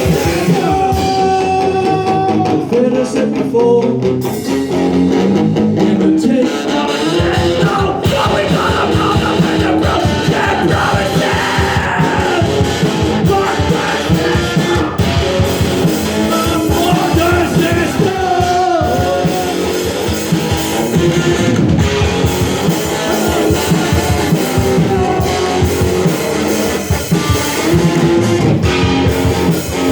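Rock song with electric guitar, drum kit and singing; the bass and drums fill in about seven seconds in.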